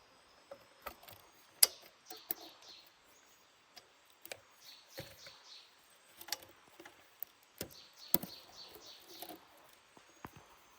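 A bird calling in runs of short, high, falling notes, several times over. Scattered sharp clicks and knocks come between the runs.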